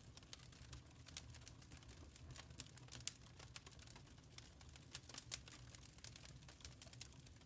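Wood fire crackling in a fireplace: faint, irregular small pops and snaps, a few sharper ones, over a low steady rumble.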